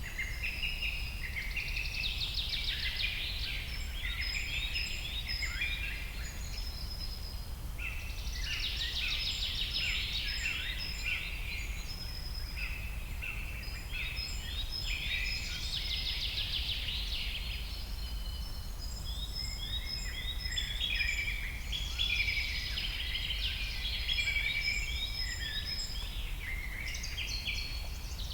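Small birds chirping and twittering in busy bouts of a few seconds with short lulls between, over a steady low hum.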